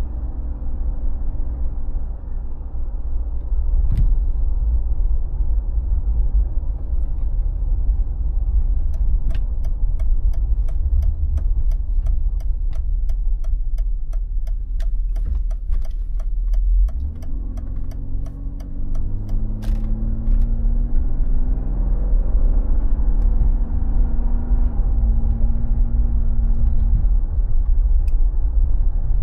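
Mercedes G36 AMG's 3.6-litre straight-six running with a deep, steady rumble. For several seconds midway there is a fast, regular ticking. From about halfway the engine note rises and falls, as under throttle.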